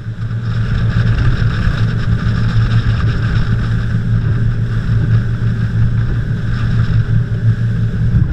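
Tour boat's engine running steadily under way, a loud, even low drone.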